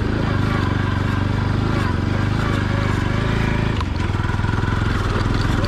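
Motorcycle engine running steadily while riding, with a brief dip in the engine note just before four seconds in.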